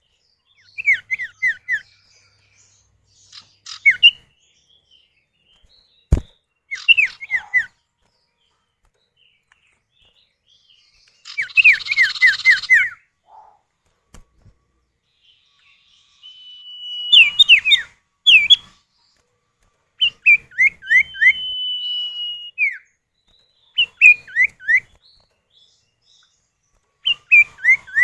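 Common iora (sirtu or cipow) calls, male and female answering each other: short bursts of quick, falling whistled notes, with two long level whistles, separated by brief pauses. A single sharp click about six seconds in.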